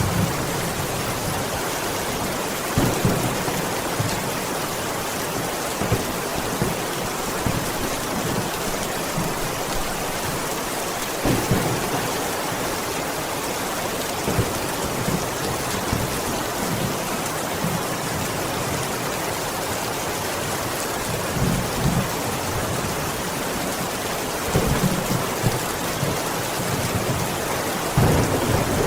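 Steady rain falling, an even hiss, with occasional short low thuds rising above it.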